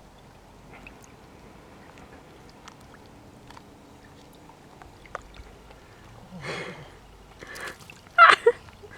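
Water in a spring puddle, with light sloshing and small scattered splashes and clicks. Two short bursts come in the second half, then a short, loud high-pitched sound near the end.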